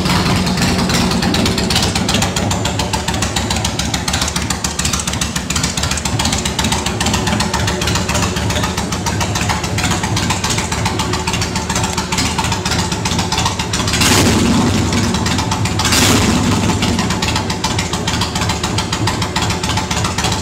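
Kawasaki Mean Streak 1500's V-twin idling through unbaffled Samson Warlord Rip Saw exhaust pipes, just after starting, with two short throttle blips about 14 and 16 seconds in.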